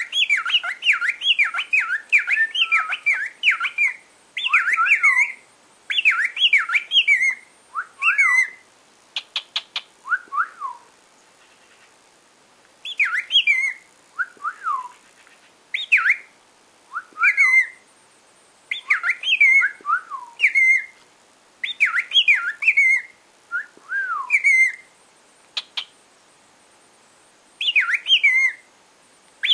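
Pet cockatiel whistling: repeated phrases of sliding notes, a steady run for the first few seconds, then short bursts of two or three seconds with pauses between them.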